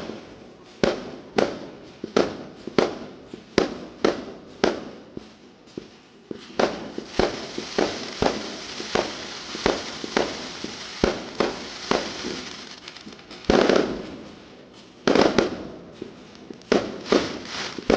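Fireworks going off in a rapid series of sharp bangs, about one to two a second. A denser crackling stretch comes in the middle, and two heavier, louder bursts follow near the end.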